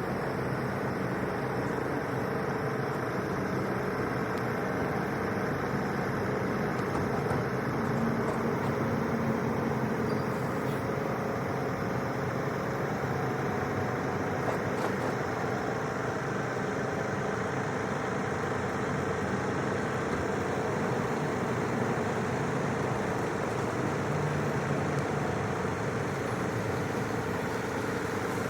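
Vehicle engine running steadily: a continuous even drone with a constant hum, no change in pace.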